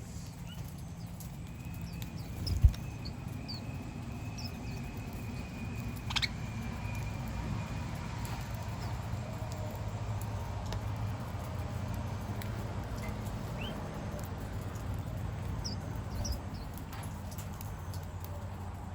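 Sparse short bird chirps from garden birds over a steady low rumble, with a faint thin steady tone that stops about eight seconds in. A sharp low thump comes near three seconds in, and a click a few seconds later.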